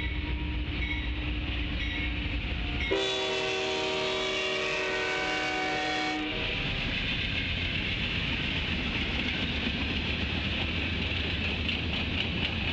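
Amtrak diesel locomotive's air horn sounding a held chord as the train reaches the grade crossing. The chord changes about three seconds in and stops about six seconds in. After that the passing passenger cars rumble and clatter steadily over the rails.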